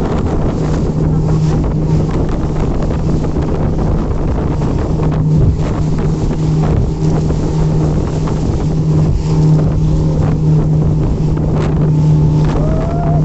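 An engine running at a steady pitch, with wind buffeting the microphone.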